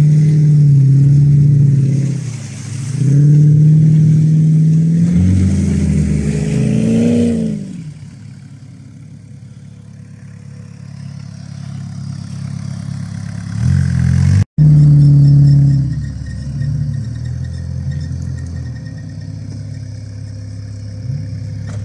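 Car engine revving hard under load while towing a car stuck in mud on a strap: two long pulls with a short dip between them, the pitch climbing and then falling away. It then runs lower and steadier, revs up once more briefly, and settles back.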